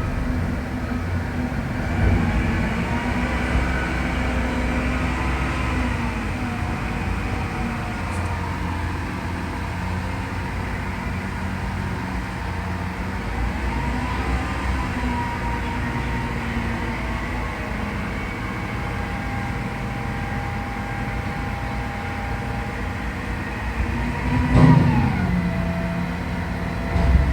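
Diesel engine of a Mack MRU613 front-loader recycling truck running, revving up and back down twice with a rising then falling whine, typical of the engine being raised to drive the loader arms' hydraulics. A loud clang near the end.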